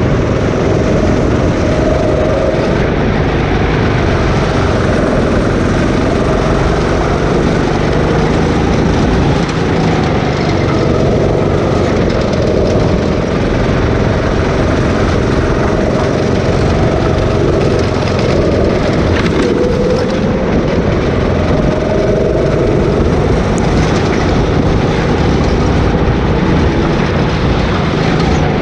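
Go-kart engine running steadily during a race, its pitch drifting up and down a little with speed.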